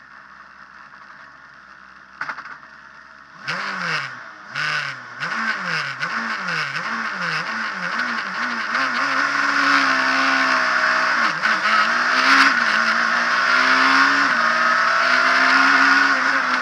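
Abarth Punto S2000 rally car's naturally aspirated two-litre four-cylinder engine, heard from inside the cabin. It idles quietly at first, with a single click about two seconds in. From about three and a half seconds the revs rise and fall sharply again and again as the throttle is blipped, then are held high before the car pulls away hard, the revs dropping briefly at each gear change.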